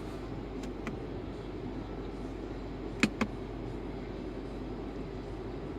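Steady low hum inside the cabin of a 2019 Subaru Ascent with its engine running. Two sharp clicks come about three seconds in, and two fainter ones about a second in, like controls being pressed.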